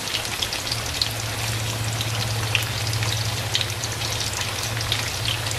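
Sweet potato chunks deep-frying in hot oil in a steel wok: a steady bubbling sizzle full of small crackles.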